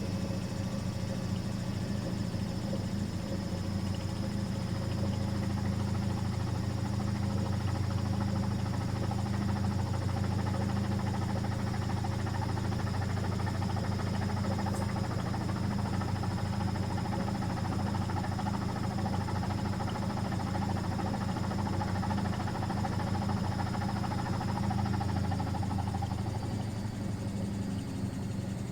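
Miele Professional WS5436 washing machine running mid-cycle: a steady low motor hum with a thin high whine that fades away near the end as the machine slows.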